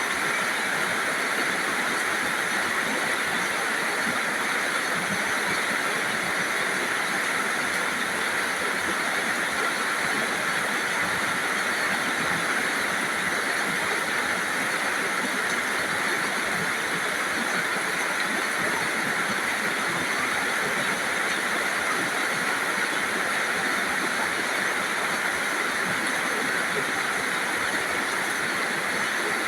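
Steady rain: a constant, even hiss with no single drops or gusts standing out.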